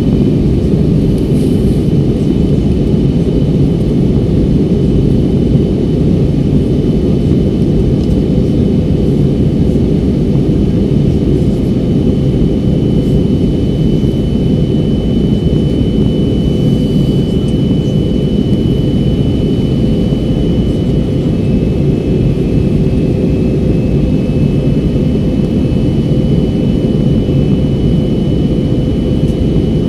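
Steady jet airliner cabin noise on descent: a loud low rush of engines and airflow, with a thin steady whine above it.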